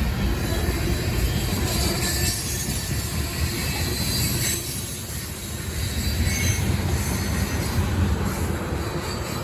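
Freight train rolling past: steady rumble and clatter of wheels on the rails, with short high-pitched wheel squeals.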